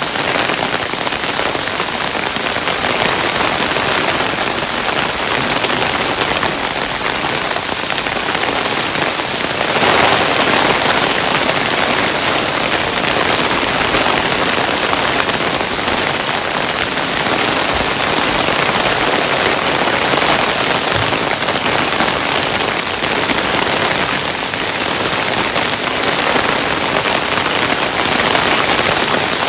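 Hailstones falling steadily, a dense even rush of countless small impacts, swelling slightly about a third of the way in, with an occasional low thud.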